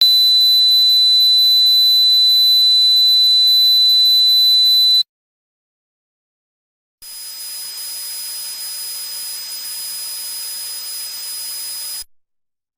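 Simulated tinnitus: a steady high-pitched ringing tone over hiss for about five seconds, then after a two-second break a second, slightly higher and quieter steady ringing tone with hiss for about five seconds.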